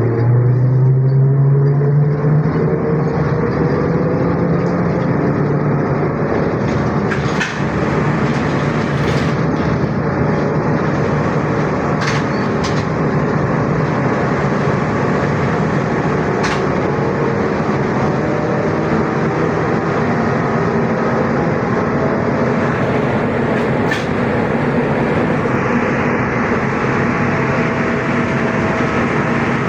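ZiU-682G trolleybus running between stops, heard from inside the cabin. The whine of its traction motor rises in pitch over the first few seconds as it gathers speed, then holds steady over the road noise. A few sharp clicks and knocks come through along the way.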